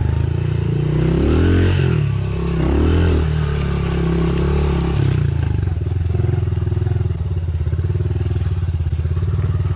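Dirt bike engine running, revving up and down a few times, then settling into a steady, even beat at low revs.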